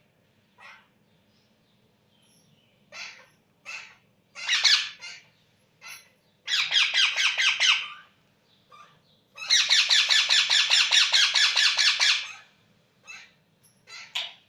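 Baby Indian ringneck parrot calling: short single calls, then two long runs of rapid pulsed chattering at about six or seven pulses a second, the second run the longest and loudest, typical of a hand-fed chick begging for food.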